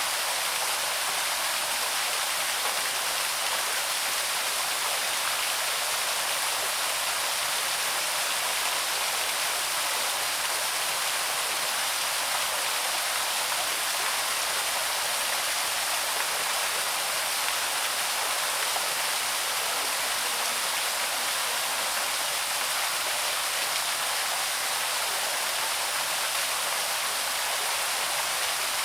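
Small waterfall on the Loch stream pouring steadily, a constant hiss and splash of falling water.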